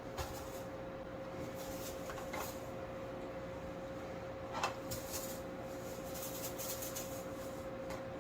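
Evaporative air cooler running on its low fan setting with a steady hum. A few short clicks and knocks sound over it, the loudest about four and a half seconds in, with some rustling near the end.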